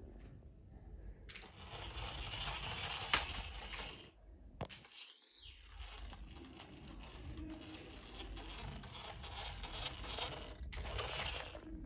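Toy trucks being handled and pushed about: an uneven scraping, rustling noise with a sharp click about three seconds in and another shortly after, then a brief drop before the scraping resumes.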